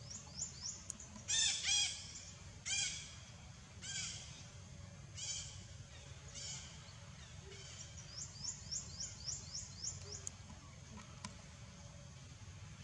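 Birds calling outdoors: about six harsh, arched calls roughly a second apart, then a quick run of short high rising chirps, about four a second, over a low steady rumble.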